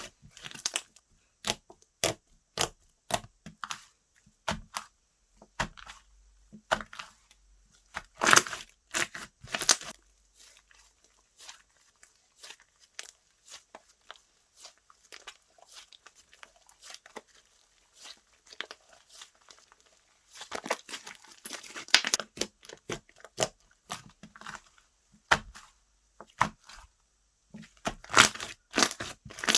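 Slime being squeezed, stretched and pressed by hand, making rapid sticky crackles and popping clicks. The crackling thins to faint scattered clicks in the middle, then picks up again in louder clusters near the end.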